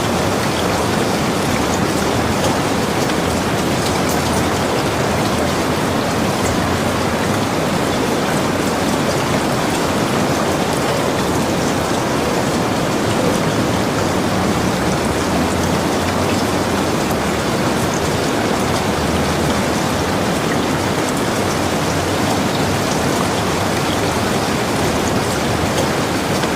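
Steady, heavy rainfall: a dense, even hiss with scattered drop patter and no thunder.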